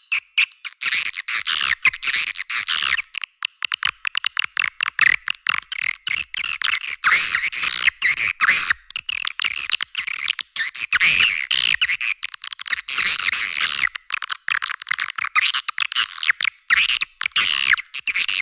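Swiftlet lure call: a recording of swiftlets twittering in a dense, rapid stream of short, high chirps, with everything below the chirps cut away. It is the calling sound played to draw swiftlets into a nesting house.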